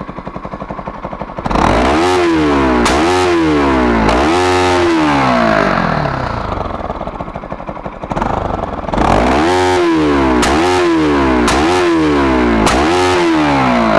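Bajaj Pulsar NS200's single-cylinder engine revved hard through its stock exhaust in repeated throttle blips, three and then, after a short settle, four more, with sharp cracks from the exhaust at the revs. The hot exhaust is spitting flames.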